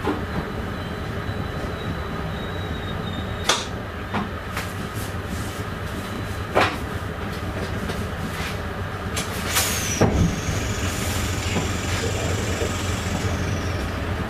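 Train running, heard from the driver's cab: a steady low rumble with several sharp knocks as the wheels pass over rail joints or points, and thin high wheel squeals, one dropping in pitch about ten seconds in and another near the end.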